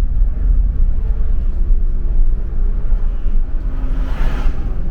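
Steady low rumble of a running vehicle, with a brief hiss about four seconds in.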